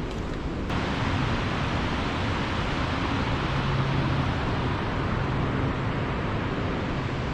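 Steady rushing roar of a waterfall, an even hiss that grows fuller and brighter less than a second in.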